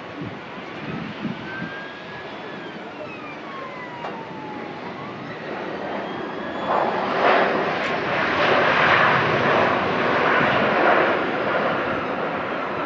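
Jet airliner's engines, a noisy roar that builds about halfway through and stays loud, with a few faint falling whistling tones from the engines before it.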